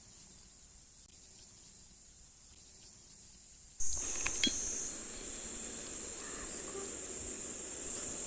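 A steady high-pitched chorus of night insects chirring. About four seconds in, it gets louder and fuller, with a couple of short clinks.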